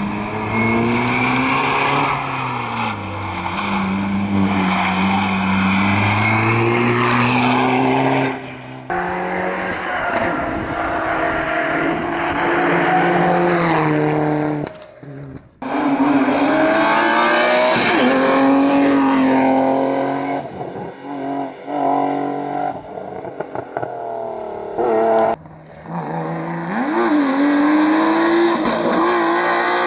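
Rally cars racing flat out through a stage, engines revving up and down through gear changes. Several separate passes follow one another, with sudden cuts about 9, 15 and 25 seconds in.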